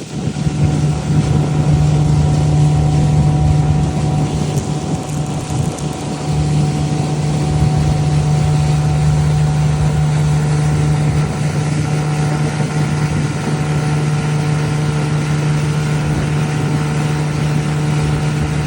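An old boat's engine running steadily at an even pitch, with water splashing along the hull.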